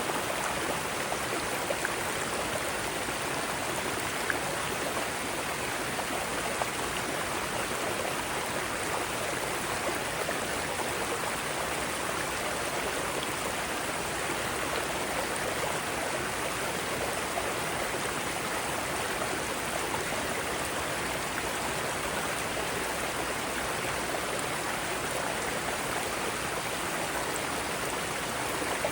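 Mountain stream rushing over rocks in small rapids, a steady, even rush of water with no breaks.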